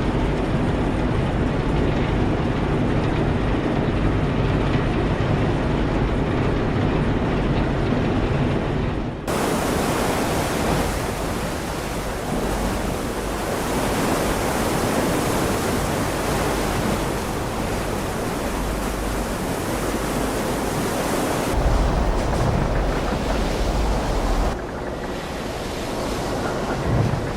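Rushing wind and sea noise at sea, with wind buffeting the microphone. A low rumble dominates the first part. The sound changes abruptly at cuts about nine, twenty-one and twenty-four seconds in.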